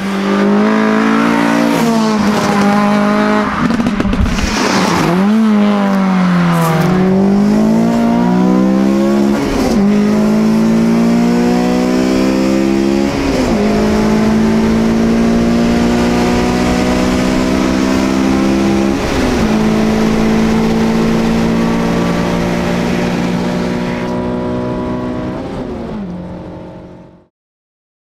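Honda Civic FN2 Type R's K20 four-cylinder engine under full throttle. The revs climb in each gear and drop sharply at each upshift, several times over, then the sound fades out near the end.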